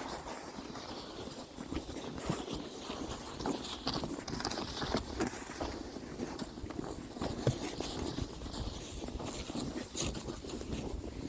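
Footsteps crunching through deep snow, an irregular run of steps.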